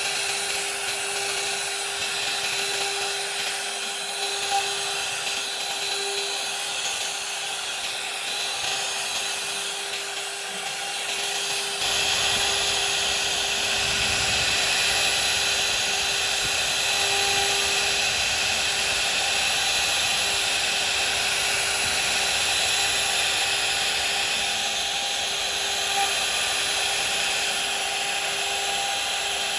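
CNC router spindle running at a steady high whine while its bit cuts wood. The cutting gets louder and fuller about twelve seconds in.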